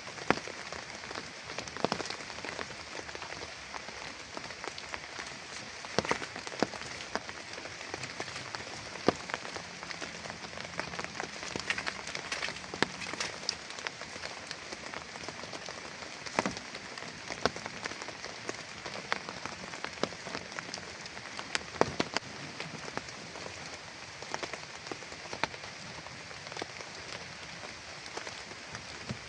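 Heavy rain falling steadily, with frequent loud single drops hitting a nearby surface.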